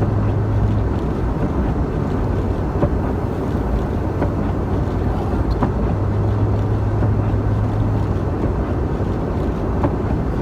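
Steady engine and road noise inside the cab of a 1996 Ford Bronco driving through snow, with a low engine hum that swells in the first second and again for a couple of seconds past the middle.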